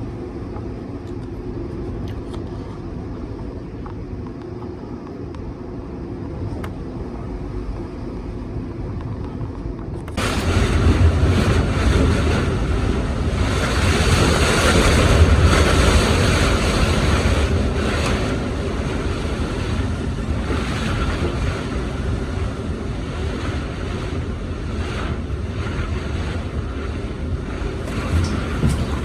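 Strong storm wind gusts. A low wind rumble runs for about ten seconds, then the sound cuts abruptly to a much louder rushing blast of wind buffeting the microphone.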